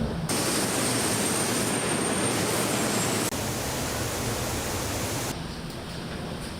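Steady loud rushing hiss of air, like factory air handling or spraying, with a faint high whistle over it for the first two seconds. The hiss drops abruptly in level about three seconds in and again about five seconds in.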